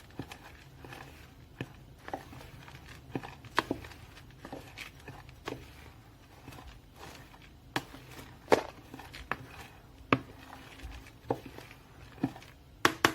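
Cookie dough with chocolate pieces being stirred by hand in a mixing bowl: irregular clicks and knocks of the utensil against the bowl.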